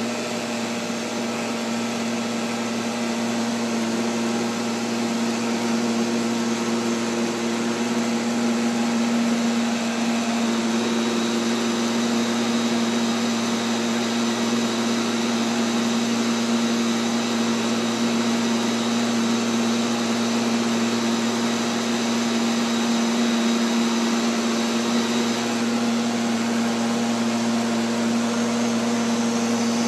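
Neato XV-11 robotic vacuum cleaner running, heard close up from on board: a steady motor whir with a strong low hum over the rush of the suction.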